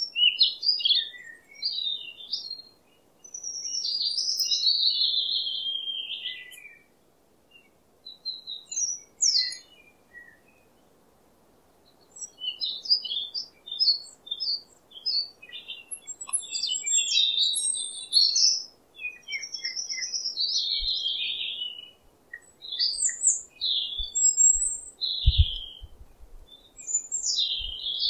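Small birds chirping and twittering in quick, high, irregular phrases, with short pauses between bursts. A few low thumps come in near the end.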